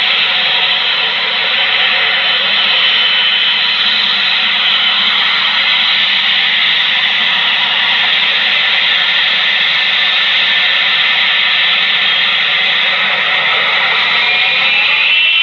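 Boeing 777F's GE90 turbofan engines running loud and steady, a broad jet roar with a faint whine. Near the end the whine rises in pitch as the engines spool up.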